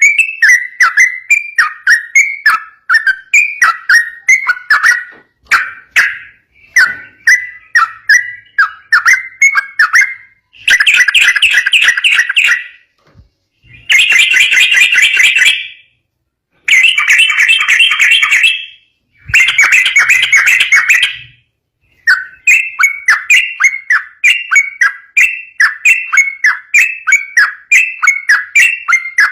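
Yellow-vented bulbul (trucukan) singing fast and without pause, in the rapid 'ropel' style: quick repeated notes broken by several stretches of dense, continuous chattering in the middle.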